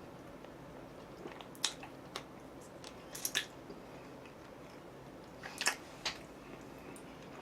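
A person chewing food close to the microphone, with a handful of short, sharp crunches scattered through, the loudest near the middle and a little past it.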